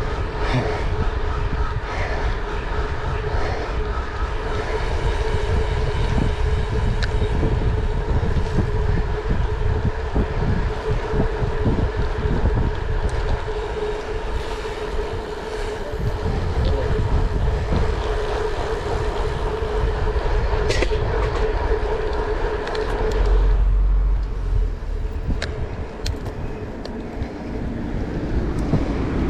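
Steady low rumble of a moving vehicle, with a constant droning hum that stops about twenty-three seconds in.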